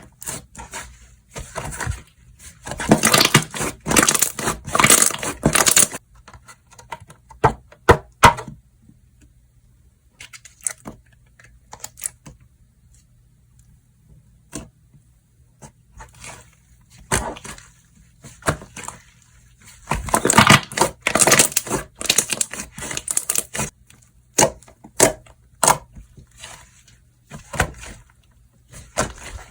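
Slime being squeezed and stretched by hand, giving crackling, popping sounds in two long bursts, about three seconds in and again about twenty seconds in, with scattered single pops between.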